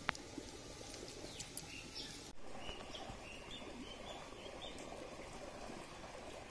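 A single sharp snap as fingers break open a small stinking passionflower fruit. About two seconds later comes a quick run of about eight short, high bird chirps.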